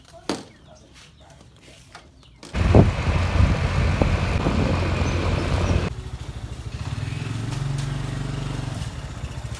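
Motor vehicle running on the road. It comes in suddenly and loud about two and a half seconds in, with a low hum under road and wind noise, then drops to a quieter, steady engine hum from about six seconds in.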